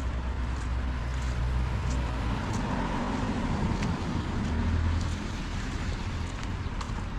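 A car going by on a wet road. Its low engine rumble and tyre hiss swell to a peak a little after the middle, then ease off, over steady rain noise with scattered small taps.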